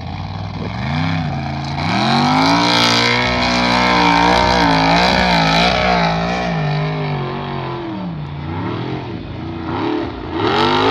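Formula Offroad hill-climb car's engine running at high revs as it claws up a steep sand slope, its pitch rising after about a second and wavering up and down as the wheels dig for grip. The revs drop after about eight seconds, then climb sharply again near the end.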